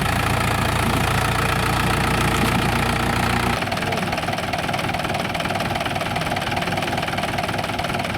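Tractor diesel engine running with a steady knock. About three and a half seconds in, the sound changes abruptly and loses its deep low end.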